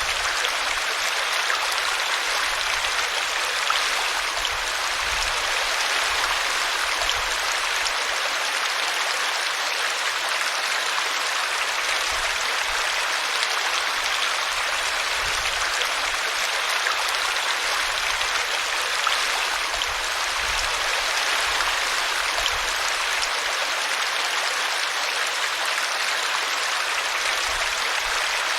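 Small brook running over a tree root: a steady, even rush and splash of flowing water.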